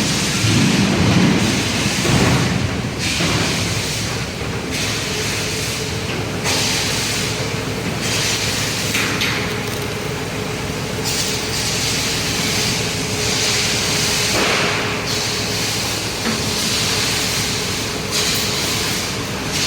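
Factory workshop noise: a steady hissing rumble with a faint steady hum, its hiss shifting abruptly every few seconds.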